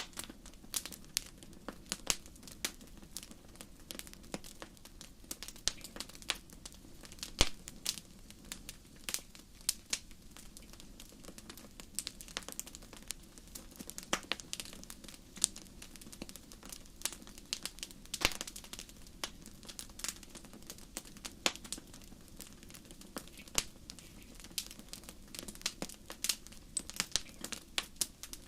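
Fire crackling: irregular sharp pops and snaps, several a second, over a steady low rush.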